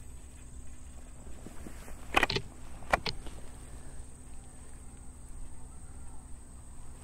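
A few sharp knocks or clicks about two and three seconds in, over a faint steady high-pitched tone and low hum.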